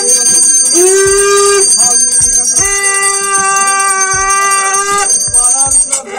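Conch shell (shankh) being blown in long, steady blasts: one ends just after the start, a shorter blast with a slight upward bend comes about a second in, a long one is held for about two and a half seconds, and another starts near the end. A high steady ringing sounds alongside.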